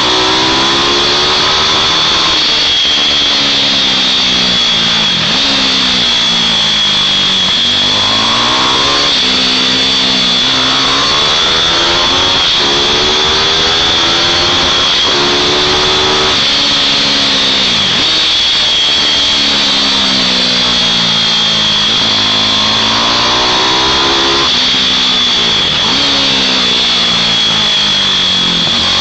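Racing mini bike engines revving hard, the pitch climbing and then dropping sharply every two to three seconds as the bikes accelerate and back off, over a constant high-pitched whine.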